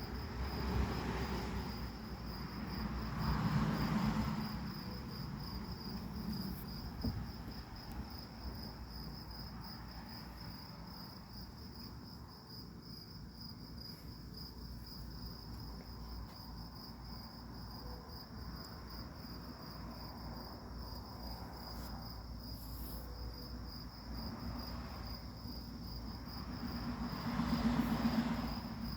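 Crickets chirping in a steady, fast, high-pitched pulse. Twice, about three seconds in and again near the end, a louder rushing noise swells up and fades over a couple of seconds.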